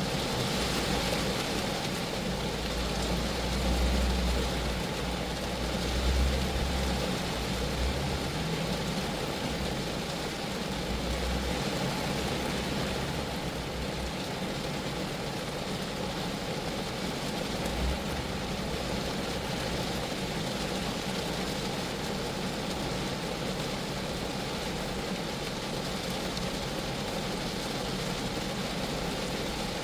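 Steady rain falling on a Geo Metro, an even hiss and patter of drops on the small car's body, with a low rumble that comes and goes during the first dozen seconds.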